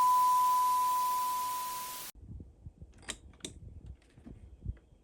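A steady electronic beep, one pure tone over hiss, that fades a little and then cuts off sharply about two seconds in. Faint room sound follows, with two light clicks and a few soft knocks.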